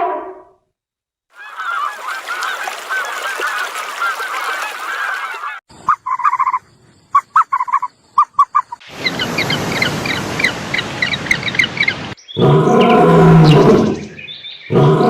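A string of separate animal-call clips, mostly a flock of geese honking: first a dense chorus of many overlapping honks, then short honks in quick groups, then another noisy flock chorus. Near the end comes a single drawn-out, lower-pitched animal call.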